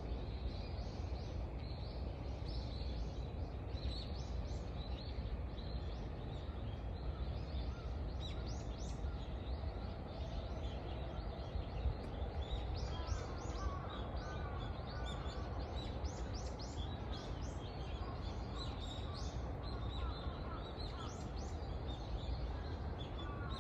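Wild birds chirping and singing: many short, high chirps throughout, joined about halfway by lower warbled phrases, over a steady low rumble.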